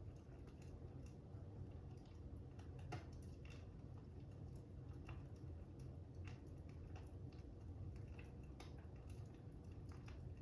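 Fire crackling: irregular small pops and ticks over a low, steady rumble.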